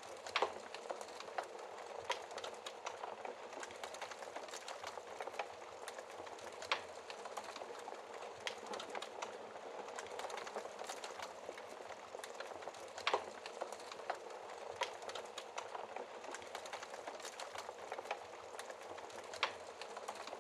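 Wood fire burning in a fireplace: a steady hiss of flames with constant small crackles and a few sharper, louder pops of the burning logs, the loudest about thirteen seconds in.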